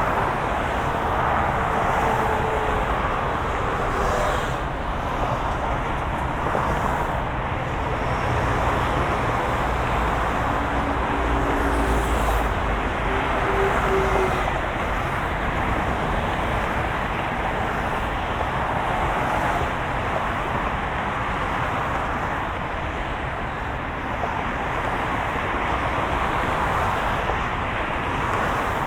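Steady road and engine noise of a moving car: a continuous, even hum and hiss with no breaks.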